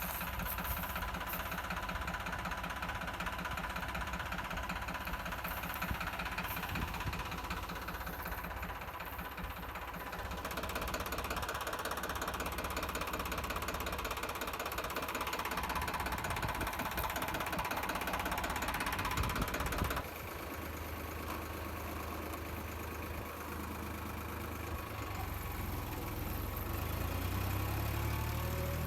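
Diesel tractor engine running steadily, with the sound changing abruptly about twenty seconds in and the engine note climbing near the end.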